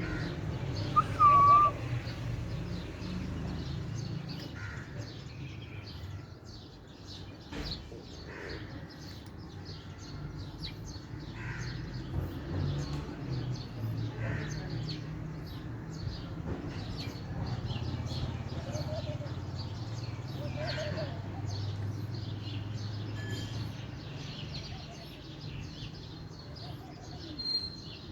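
A cat meows once, briefly, about a second in, over a steady low hum and many faint short clicks.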